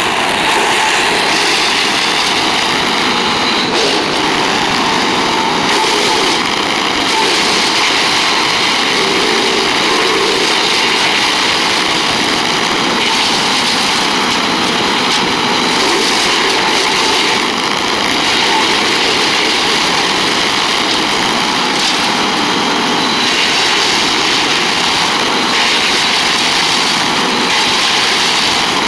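Wood chipper running steadily, its engine and cutter making a constant loud machine noise with no pauses or clear changes in load.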